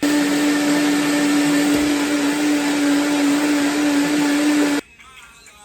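Blender running steadily with a strong hum, whipping charred Anaheim peppers, garlic and mayonnaise into an aioli, then switched off suddenly near the end.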